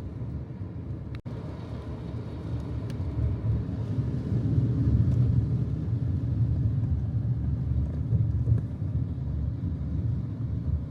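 Steady low rumble of a vehicle in motion, briefly cut off about a second in.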